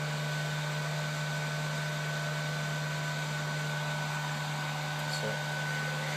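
Hot-air top heater of a Bird 8888 BGA rework station running, a steady blowing noise with a low hum and a faint high steady tone. A small click about five seconds in.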